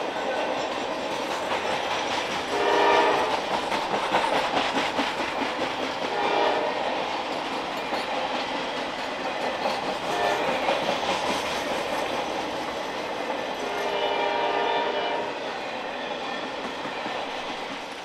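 Norfolk Southern freight train passing, its locomotive horn sounding four times, the last blast the longest, over the steady rumble and clicking of wheels on the rails.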